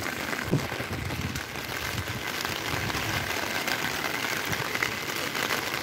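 Heavy rain falling steadily on a wet street, an even hiss of rain with fine patter.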